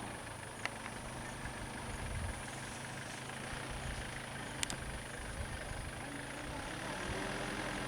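Vehicle engine idling with a steady low hum, broken by two brief sharp clicks.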